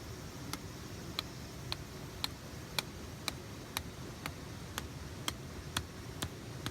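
Steady rush of a fast mountain stream, with a regular run of about a dozen sharp ticks, roughly two a second, louder than the water.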